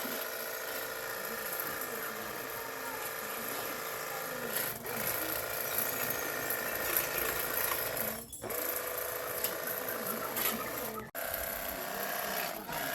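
A small machine running steadily with a constant hum, cut off abruptly for a moment several times.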